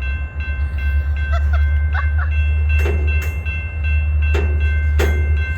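A freight train rolling past at close range: a heavy, steady low rumble with sharp knocks of the wheels over the rail joints about halfway through and near the end.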